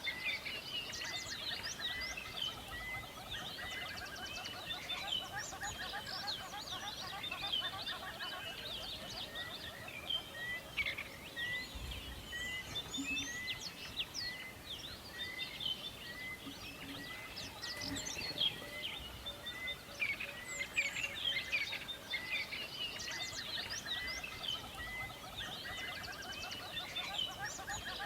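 Many birds chirping and singing at once in a forest, with one bird repeating a short note about twice a second through the first half.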